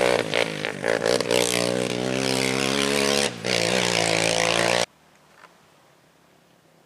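Off-road race vehicle's engine running hard at high revs, its pitch dipping and rising with throttle and gear changes, then cutting off suddenly about five seconds in, leaving only faint background.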